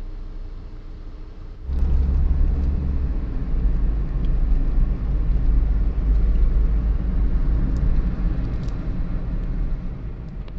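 Sandstorm wind buffeting a phone's microphone as a low rumble, jumping much louder about two seconds in and easing a little near the end.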